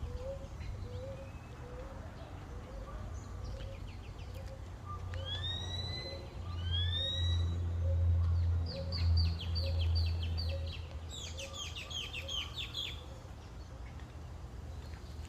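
Several birds calling and singing: a soft note repeated about twice a second, then rising whistled calls and rapid trilled phrases through the middle and later part. Wind on the microphone makes a low rumble that swells in the middle.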